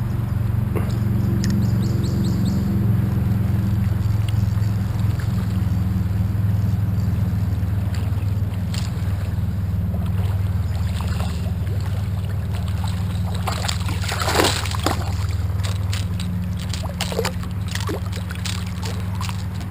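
Water sloshing and gurgling around a fishing kayak over a steady low hum, with a cluster of sharp splashes about two-thirds of the way through.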